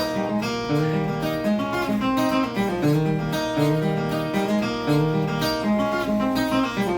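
Acoustic guitar played solo with a pick, cross-picking a steady rolling pattern of single notes over a repeating bass line.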